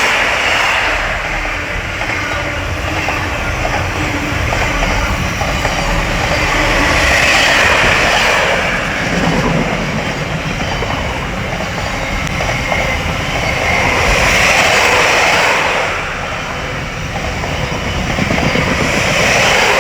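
Freightliner container freight train hauled by a Class 66 diesel passing close by, a steady rush of wagon wheels on the rails that swells and eases several times as the wagons roll past.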